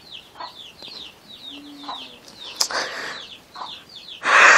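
A small bird chirping repeatedly: a rapid run of short, high, falling chirps, several a second. A short loud rustle near the end.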